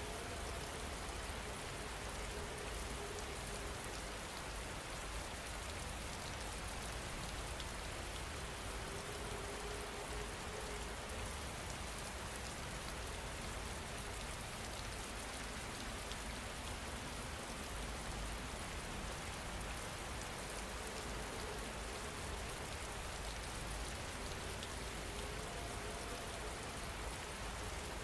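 Steady rain falling, an even hiss of many drops on a surface with no pauses.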